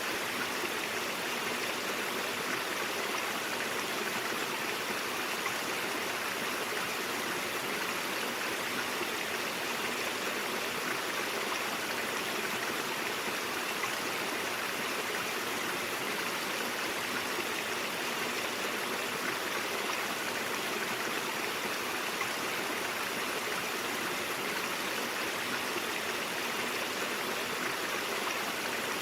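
Brook water flowing steadily, an even, unbroken rushing babble.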